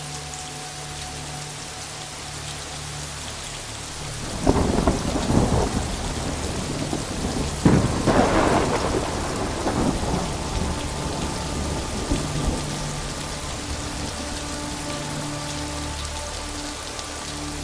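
Heavy rain falling steadily, with two loud claps of thunder, one about four and a half seconds in and another about three seconds later, each rolling away over several seconds.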